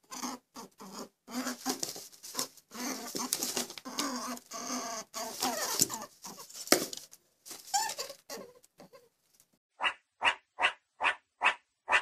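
Irregular scuffling and crackling noises. Then, from about ten seconds in, an even series of short chirping calls, about two and a half a second, from meerkats.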